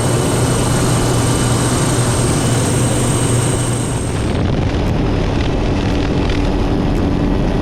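Helicopter in flight heard from inside a doorless cabin: steady rotor and engine noise with a low hum, mixed with rushing wind. A faint high whine drops out about four seconds in.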